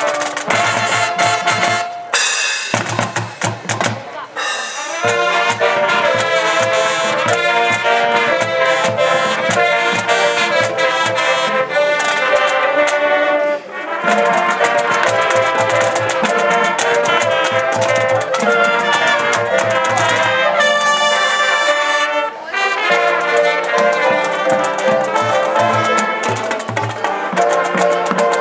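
Marching band playing: brass (trumpets and trombones) over marching drums, with short breaks in the phrases.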